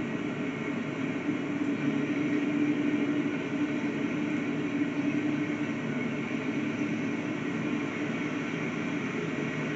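Loaded coal train rolling past, a steady rumble with no horn or sudden sounds, heard through a street webcam's microphone.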